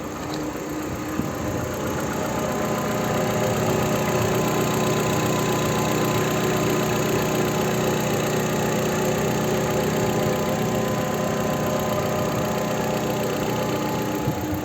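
Chery Tiggo's freshly installed used replacement engine idling steadily after a test start. It runs evenly, which the mechanic takes as the engine being in full working order.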